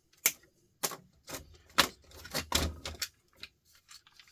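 A run of sharp clicks and knocks from hard objects being handled, about eight in the first three seconds, then only faint ticks.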